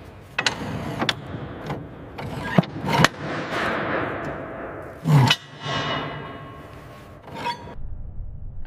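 A series of sharp knocks and clanks mixed with scraping, the sound of equipment being handled and set in place; the loudest knock comes about five seconds in.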